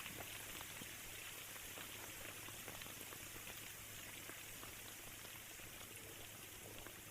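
Rain falling steadily, with many separate drops ticking close by, over a faint low steady hum.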